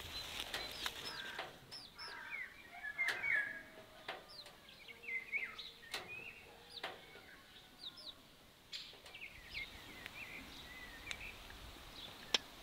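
Birds chirping: many short, quick calls overlapping throughout, with a few sharp clicks among them.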